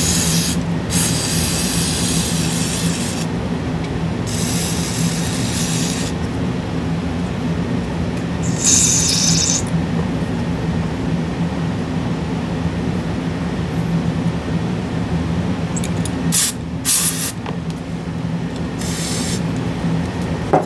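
Aerosol cleaning spray hissing in repeated bursts onto a graphics-card fan: several long blasts of one to two seconds, then a few short ones near the end, over a steady low hum.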